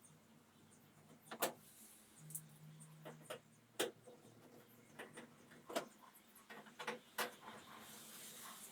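Light clicks and knocks from hands and tools working on a washing machine, seven or so sharp ones spread out at irregular intervals, with a faint low hum for about a second a little after two seconds in.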